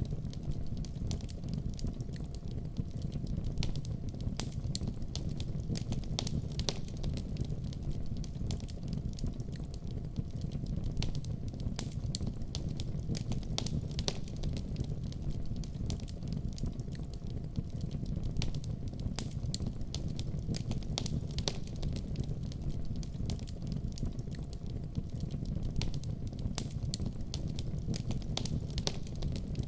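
Wood fire in a fireplace crackling: a steady low rumble of burning with many sharp, irregular pops and snaps.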